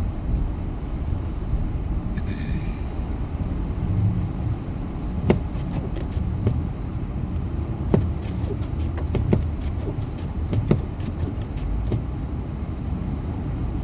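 Truck driving on a snowy road, heard from inside the cab: a steady low rumble of engine and tyres, with a few sharp knocks every second or two.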